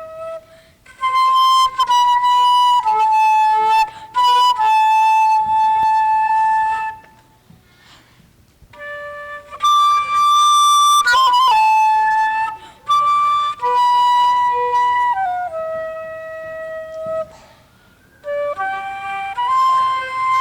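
Flute playing a slow melody of held notes in phrases, breaking off twice for short pauses, with a quick wavering passage around the middle.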